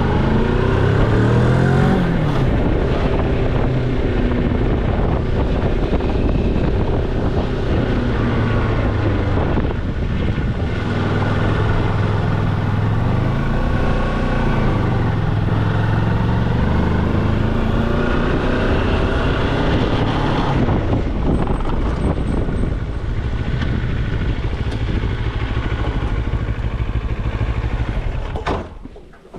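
Moto Morini X-Cape's parallel-twin engine running hard, its revs climbing at the start and rising and falling several times. The sound drops away sharply near the end.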